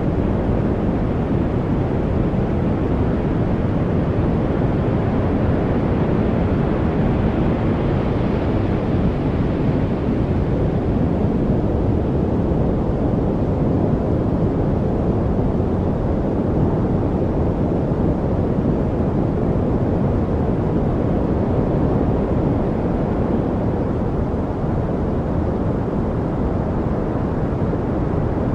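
Steady, unbroken noise track, deep and rumbling rather than hissy, with the higher hiss swelling slightly about ten seconds in.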